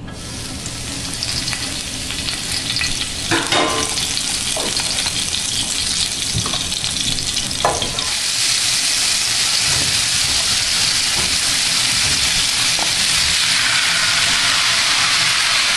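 Hot olive oil sizzling in a frying pan as minced garlic fries and is stirred with wooden spatulas, with a few knocks of the utensils on the pan. About eight seconds in the sizzle grows louder and fuller as chunks of raw chicken and sliced sausage go into the oil.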